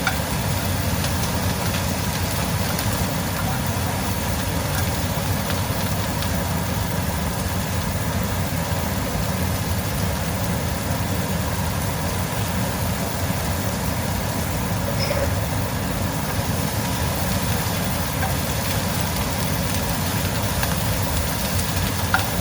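Chicken strips and sliced bell peppers and onion frying in olive oil in two pans: a steady, even sizzle over a low rumble.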